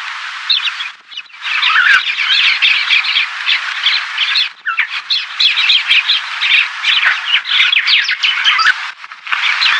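A flock of small birds chattering, many chirps and twitters overlapping into a dense din. It breaks off briefly about a second in, again around the middle, and near the end.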